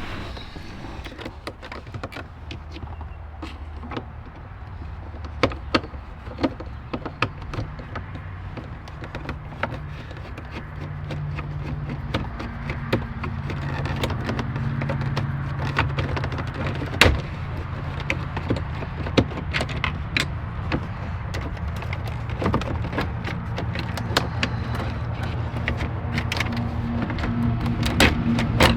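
Scattered light clicks and knocks of hand work on a car's dashboard and instrument cluster, over a low steady hum.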